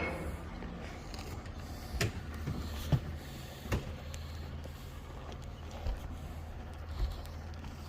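A steady low engine hum, with five sharp knocks scattered through it; the loudest comes about three seconds in.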